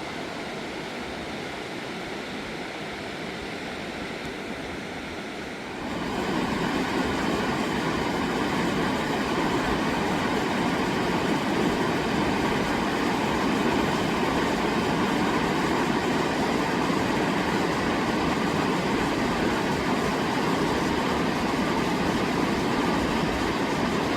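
Steady rushing of a fast-flowing river, becoming louder about six seconds in.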